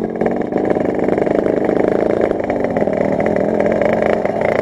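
Yamaha RX-King's 135 cc two-stroke single-cylinder engine running through an aftermarket expansion-chamber exhaust. The engine note dips and then rises again about halfway through.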